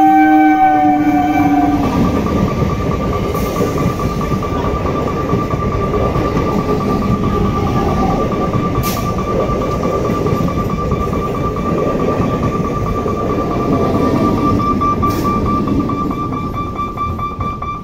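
Electric multiple unit local train blowing its horn, which cuts off about two seconds in, then its coaches running past close by with a steady loud rolling noise. A steady high whine sits over the noise throughout, with a few sharp clicks.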